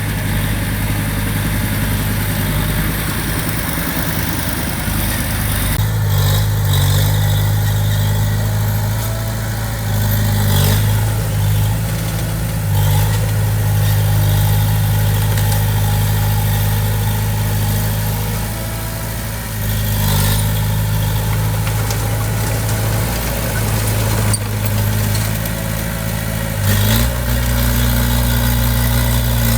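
Diesel engine of a heavy construction machine running steadily, with a few scattered knocks. The engine note shifts about six seconds in and rises slightly near the end.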